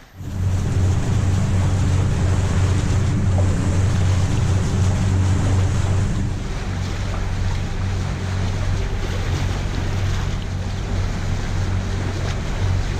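A sailing catamaran under way on engine: a steady low engine hum, with water rushing past the hulls and wind buffeting the microphone.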